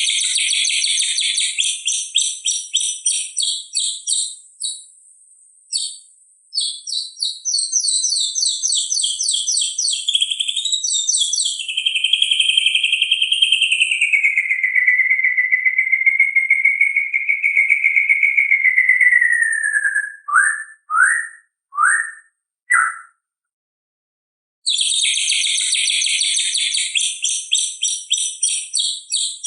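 White-rumped shama (murai batu) singing: fast, rattling trill phrases, then a long wavering whistle that drifts down in pitch, four short downslurred notes, a brief pause, and the rapid trills again.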